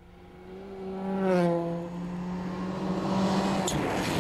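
A World Rally Car's engine running hard as the car approaches and passes, loudest and dropping in pitch about a second and a half in, then carrying on steadily. A short click comes near the end.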